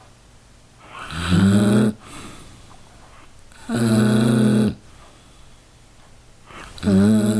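A sleeping dog snoring loudly: three long pitched snores, each about a second, coming roughly every three seconds with quiet gaps between.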